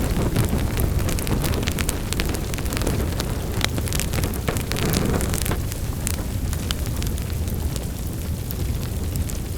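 Wood fire in a fireplace crackling and popping, with irregular sharp snaps over a steady low rumble of burning flames.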